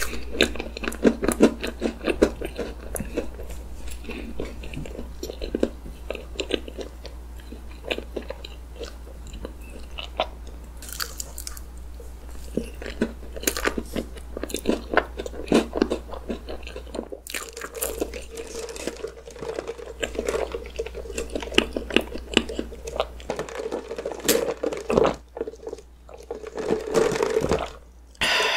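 Close-miked mouth sounds of eating chocolate layer cake with whipped cream: wet chewing and smacking with some crunching from crisp bits in the cake.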